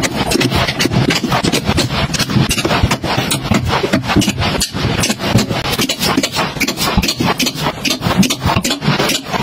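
A dense, irregular run of clicks, knocks and rustling, several a second, as items and packaging are handled and set down.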